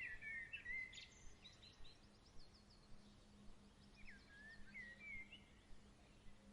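Faint evening birdsong: a whistled, gliding song phrase near the start, a quick run of short higher notes, then another whistled phrase about four seconds in, over a faint steady low hum.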